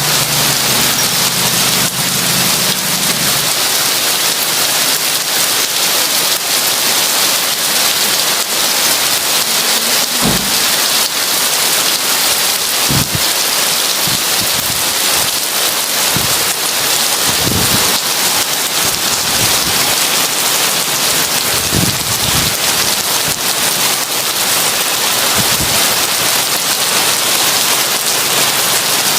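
Heavy rain pouring in a dense, steady hiss. A few brief low thumps stand out now and then, and a low hum under the rain stops a few seconds in.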